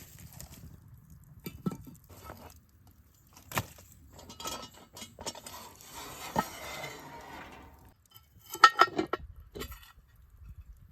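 Scattered clinks and knocks of cooking gear being handled, with a quick run of sharp clinks near the end.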